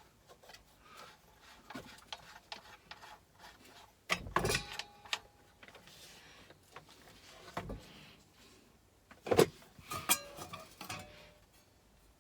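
Knocks, clunks and small clicks of a faulty, unplugged chop saw being worked by hand, its blade turned and mechanism skipping over. There are a few sharp clatters, the loudest about four and a half and nine and a half seconds in, with quieter handling noises between.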